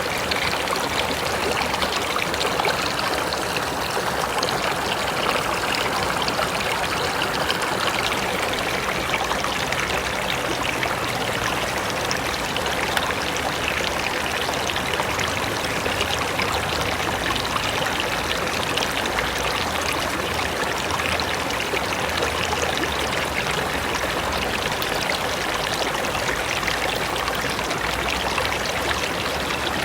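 Mountain river rushing steadily over rocks, an even, continuous sound of flowing water.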